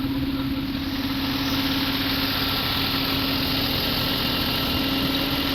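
Scania 480 truck's diesel engine idling steadily, with a constant hum.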